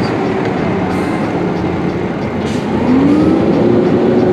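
Road traffic: a motor vehicle passing close, over a steady rush of noise. Its engine note rises about three seconds in and then holds.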